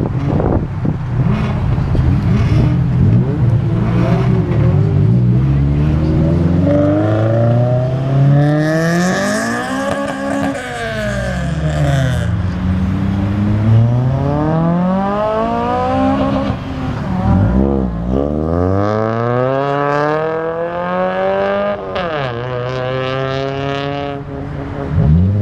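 Several cars accelerating hard away one after another, their loud exhausts climbing in pitch as they rev up, then dropping sharply as each shifts gear or goes by. At times two engines overlap.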